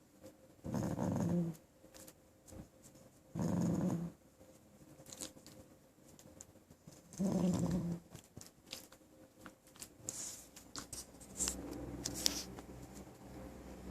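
A puppy growling three times, each growl lasting under a second, followed by softer scuffling and clicking sounds.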